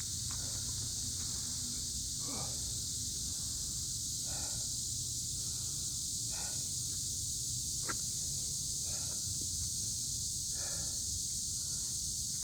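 Cicada chorus, a steady high buzzing drone throughout. Over it come short puffs of breath about every two seconds, in time with exercise repetitions, and one sharp click about eight seconds in.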